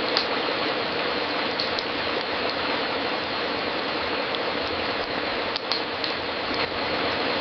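Crackling wood fire in a fireplace: a steady hiss with scattered sharp pops, a few of them bunched together about five and a half seconds in.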